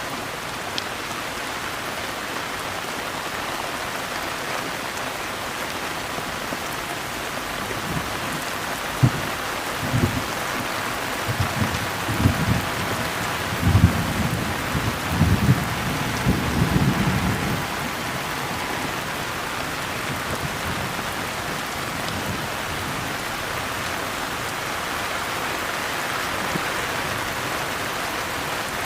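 Steady rain falling, with low thunder rumbling in surges through the middle stretch.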